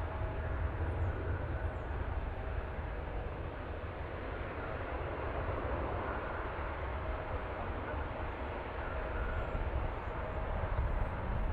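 Jet aircraft engines heard from a distance: a steady rumble with a broad rushing noise and a faint humming tone, swelling slightly near the end.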